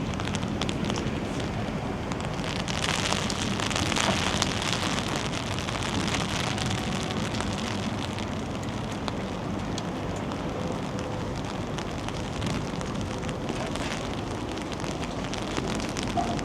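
Steady rain: an even hiss dotted with many small ticks of drops, somewhat heavier around three to five seconds in.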